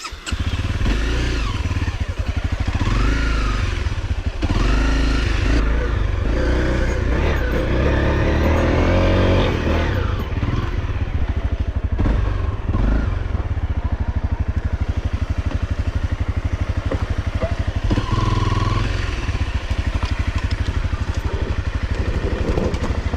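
Off-road motorcycle engine under throttle, revving up and down as the bike is ridden at a sandy climb. Toward the end it settles into a steady, pulsing run.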